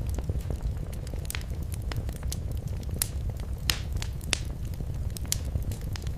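Wood fire crackling: irregular sharp snaps and pops over a steady low rumble of the burning fire.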